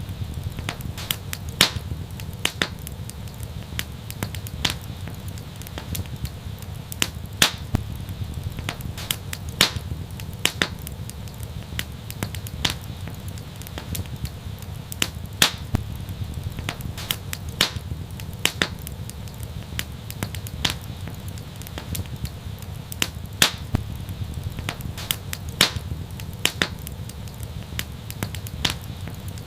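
Wood fire crackling in a fireplace: irregular sharp pops and snaps, a few a second, over a steady low rumble.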